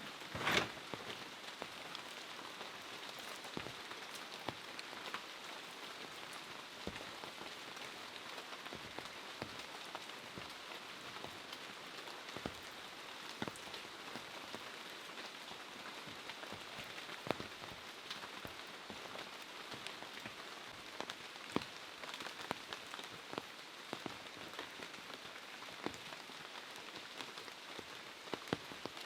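Steady rain falling, an even hiss with many scattered drops landing close by, and one louder splash or knock about half a second in.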